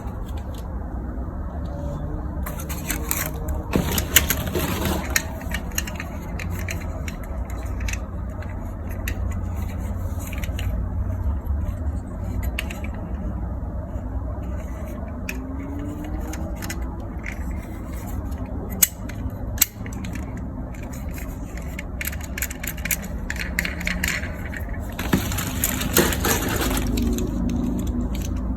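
Small plastic toys being handled: scattered clicks, knocks and scraping over a steady low hum, with a denser burst of clattering about four seconds in and again near the end.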